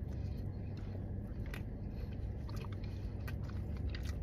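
Person chewing a soft blackened chicken sandwich with her mouth closed, faint wet mouth clicks now and then over a steady low hum inside a car cabin.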